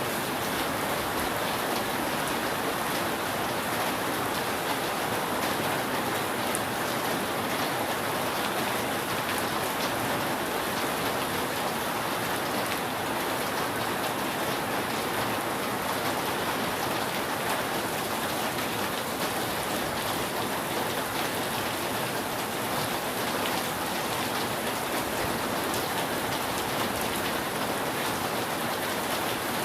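Steady rain falling on a roof: an even, unbroken hiss with faint ticks of single drops through it, and no thunder.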